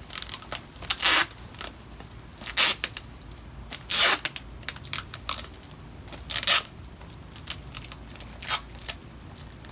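Box tape being pulled off the roll in about five short, noisy pulls, with small crinkles and taps between as it is pressed down.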